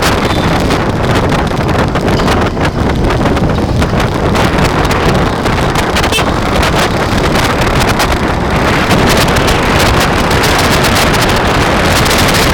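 Wind rushing and buffeting over the microphone of a camera on a moving bike, a steady loud rush with constant flutter.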